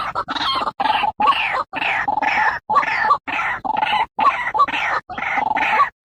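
White-breasted waterhen calling: a loud, harsh, repeated series of croaking notes, about two a second, each with short gaps between.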